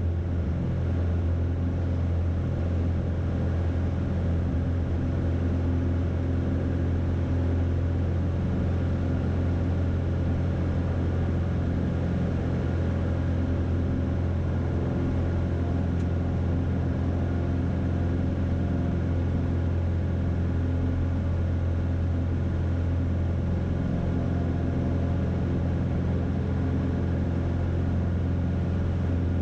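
Cessna 170B's six-cylinder Continental engine and propeller droning steadily in climb after takeoff, heard from inside the cabin: a constant low hum with a stack of steady engine tones above it.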